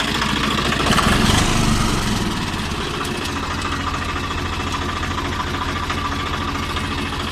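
Swaraj 855 FE tractor's three-cylinder diesel engine running. It revs up briefly about a second in, then settles to a steady idle.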